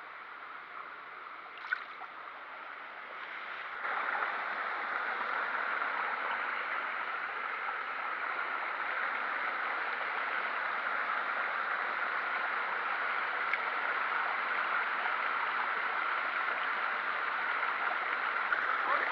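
Running water of a stream or river, a steady rushing that grows louder about four seconds in.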